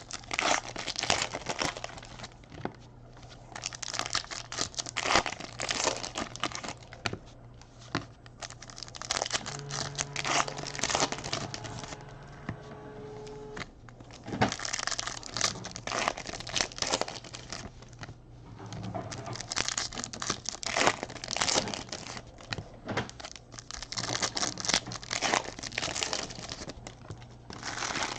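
Crinkling and tearing of foil trading-card pack wrappers as packs are ripped open and the cards handled, in irregular bursts, over a faint steady low hum.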